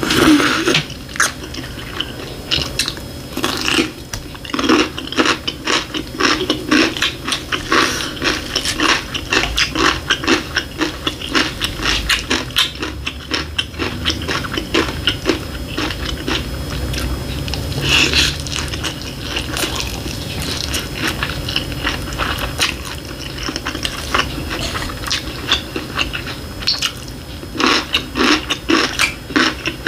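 Close-miked eating sounds: chewing and slurping of tomato ramen noodles and rice with fried egg, a dense irregular run of short wet smacks and clicks.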